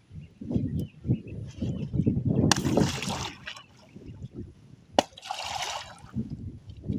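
Water sloshing and splashing around a small wooden canoe, with two louder splashes and a sharp knock about five seconds in.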